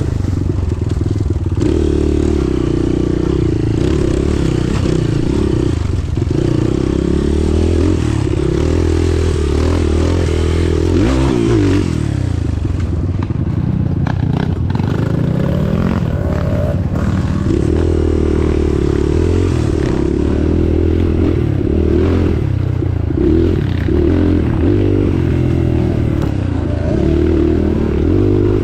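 An off-road vehicle's engine running hard, its revs rising and falling slowly as it labours along, with clattering and scraping rattles over the top.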